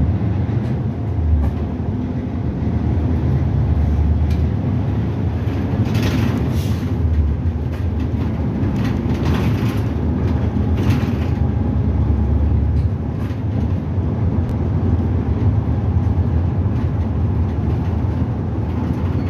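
Route bus running, heard from inside the cabin: steady engine and road rumble. A few short hissing swells come around the middle.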